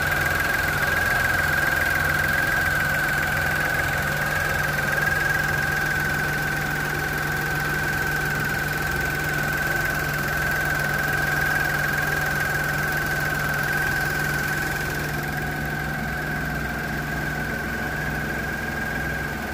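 Dacia Sandero's TCe 90 1.0-litre three-cylinder turbo petrol engine idling steadily, heard close at the open bonnet, with a steady high-pitched whine over the low engine hum.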